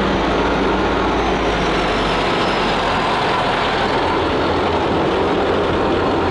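Yenisei 1200 combine harvester running under load, its diesel engine and threshing machinery making a loud, steady din. The low engine note shifts slightly about two and a half seconds in.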